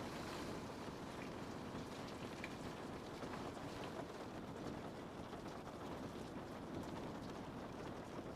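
Steady rain falling on a window: a dense, low, even patter with faint scattered drop ticks.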